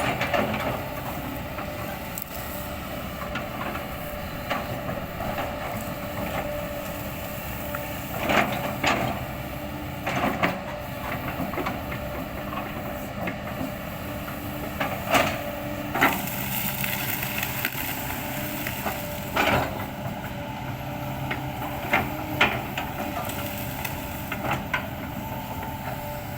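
Kobelco excavator's engine running steadily, with irregular loud cracks and crunches of oil palm trunk wood being chopped up by the bucket.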